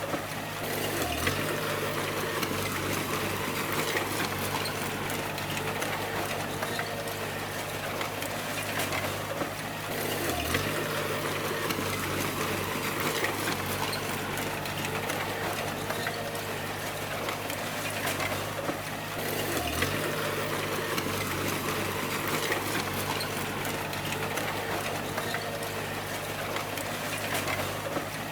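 D20 bulldozer's diesel engine running steadily under a dense rushing noise, its low note dipping briefly about every nine seconds.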